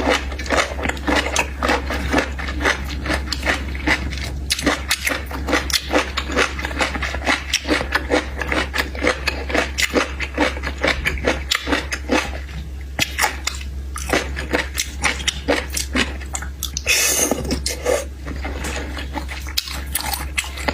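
A person eating seafood close to the microphone: chewing and crunching, with many quick irregular clicks and cracks, over a steady low hum.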